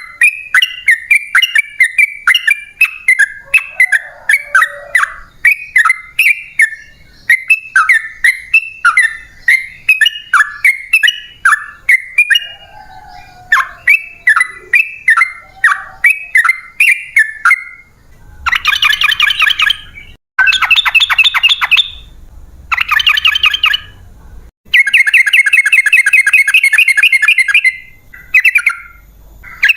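Yellow-vented bulbul (trucukan) singing: a long run of short, sharp notes about two a second, then, from about two-thirds of the way through, bursts of fast rattling trills lasting one to two seconds each.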